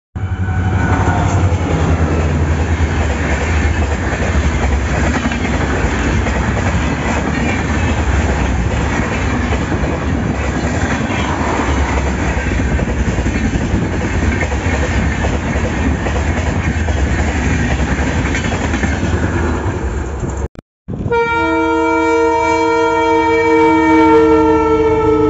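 A passenger train runs close by, wheels clattering over the rail joints in a steady rumble. Near the end, after a cut, a WDP4D diesel locomotive sounds one long multi-note horn blast.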